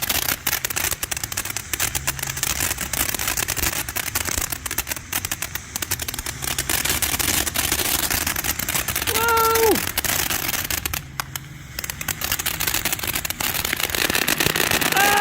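Consumer firework fountain (Santan Fireworks Hawker Hurricane, 200 g) spraying, with dense, rapid crackling throughout that thins briefly about two-thirds of the way in.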